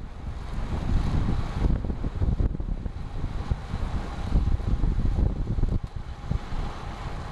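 Wind buffeting the microphone of a camera riding along on a moving road bike: a gusting low rumble that swells and drops from moment to moment.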